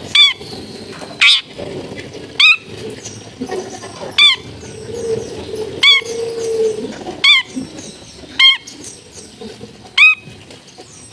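Long-tailed shrike (cendet) giving short, harsh, buzzy calls, repeated eight times about every second or so. Fainter high chirps from other birds and a steady background noise lie underneath.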